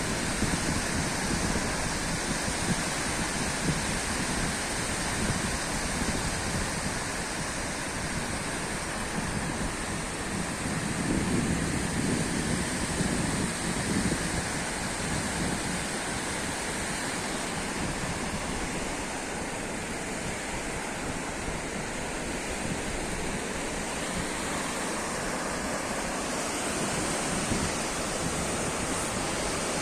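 Sea waves washing in a steady rush, swelling louder now and then, most plainly about eleven to fourteen seconds in.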